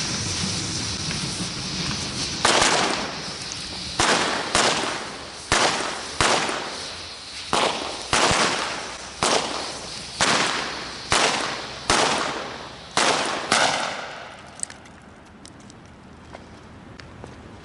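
A hiss, then about thirteen loud firework bangs at irregular intervals of roughly a second, each with a brief echoing tail. The bangs stop about three-quarters of the way through, leaving a few faint distant pops.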